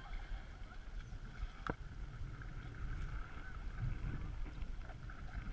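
Wind rumbling on the microphone out on open water while kayaking, with a flock of geese calling faintly in the distance. A single sharp click about a second and a half in.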